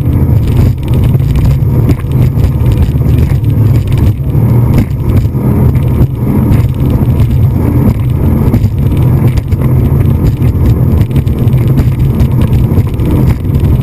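A motorboat underway: a loud, steady low rumble of engine and rushing noise.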